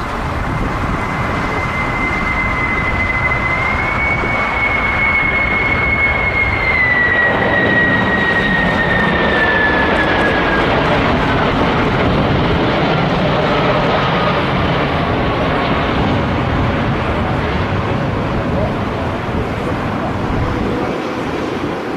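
Jet airliner passing close by: loud engine noise with a high whine that holds steady, then falls in pitch from about seven seconds in as the plane goes past.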